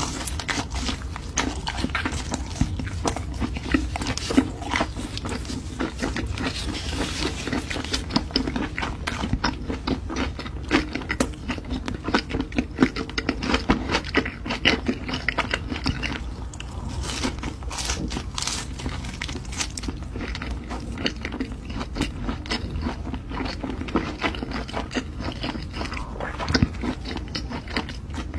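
Close-miked eating of Korean sausage: a continuous, irregular run of sharp, crunchy bites and chewing.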